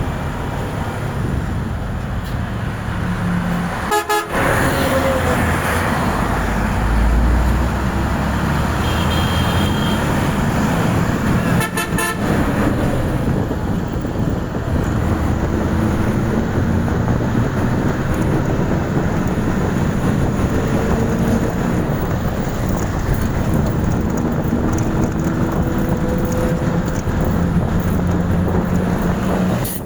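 Steady road traffic with vehicle horns honking now and then, broken by two abrupt cuts.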